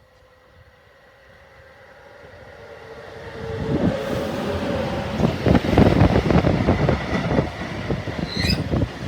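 Mixed freight train passing close alongside a moving train: a rumble that builds steadily, turns loud about three and a half seconds in, and goes on as a rush of wagons with quick, irregular knocking of wheels on the rails.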